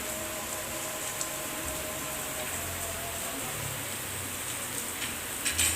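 Heavy rain falling in a steady downpour, an even hiss, with a couple of short sharp knocks near the end.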